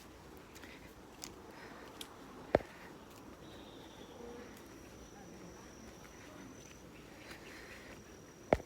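Insect trilling on one steady high note for several seconds, faint, with two sharp knocks about six seconds apart that stand out above it.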